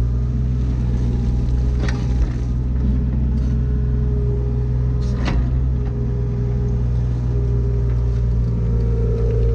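Diesel engine of a mini excavator running steadily under a wavering hydraulic whine as it works, with two sharp knocks, about two and five seconds in.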